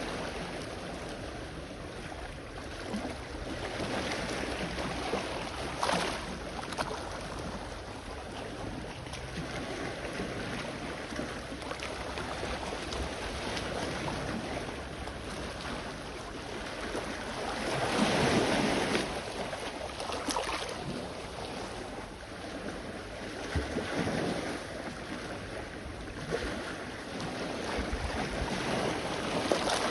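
Sea waves washing in, each surge rising and falling, with the largest wave breaking a little past halfway. Wind buffets the microphone throughout.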